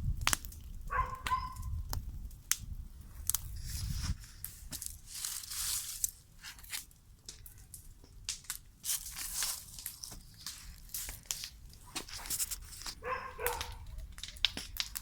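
Bonfire crackling and popping as it burns, with scattered sharp snaps and a low rumble at times. Two short high calls, about a second in and near the end.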